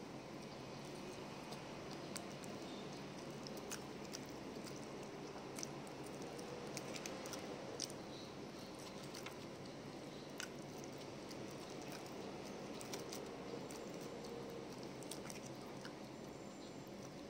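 Soft chewing of a mouthful of fried rice-flour cake with egg, with scattered small sharp clicks over a steady faint room hiss.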